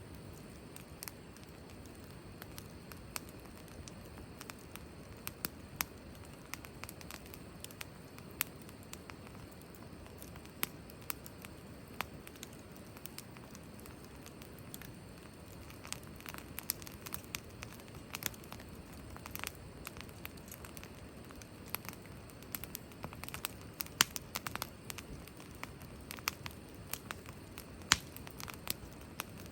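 Wood fire crackling, with irregular sharp pops and snaps over a soft steady background. The pops come more often in the second half.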